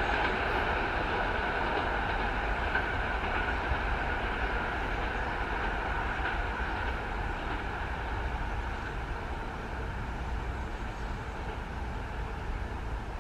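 Train running along the line, a steady running noise slowly fading as it moves away.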